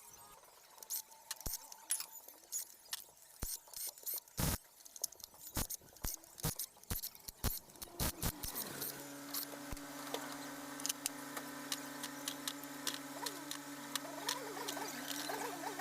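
Irregular metallic clinks and knocks of tools and engine parts being handled, a few dozen over about eight seconds. About nine seconds in, a steady low machine hum starts and runs on under scattered light clicks.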